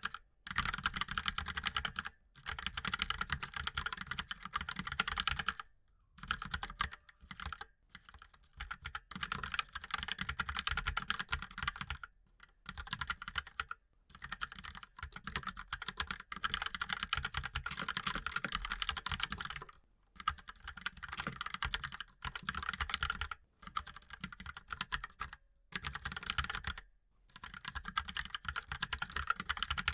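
Fast typing on a mechanical keyboard: rapid keystrokes in runs of a few seconds, broken by short pauses.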